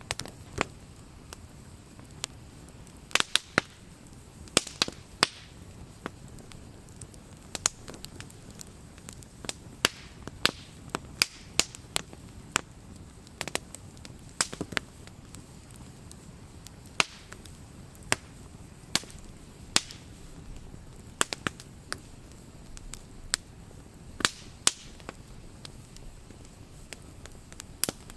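Wood campfire burning: irregular sharp crackles and pops over a low steady hiss, with a few louder cracks.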